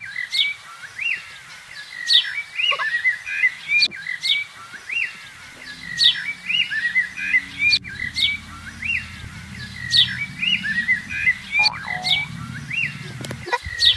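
A songbird singing the same short phrase over and over, about once every two seconds: a sharp high falling note followed by a quick run of chirps.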